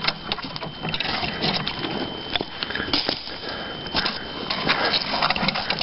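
Footsteps on a muddy, overgrown path, with brush rustling and twigs snapping against the walker: irregular crunches and snaps, no steady rhythm.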